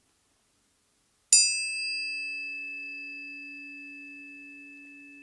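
A planetary tuning fork struck once about a second in, giving a sharp metallic ping that settles into one steady pure tone, slowly fading and still ringing at the end.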